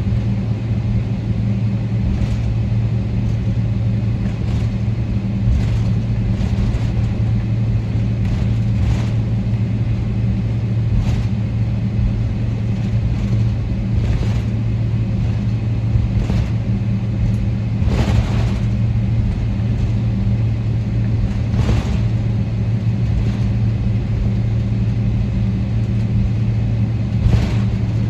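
Steady low hum of a Boeing 777-300ER's cabin with the engines running, with occasional brief knocks or rattles.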